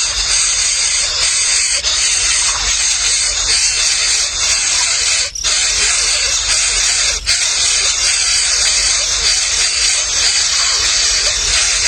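A dense, continuous chorus of high-pitched chirping and squealing from many baby birds, with two brief breaks about five and seven seconds in.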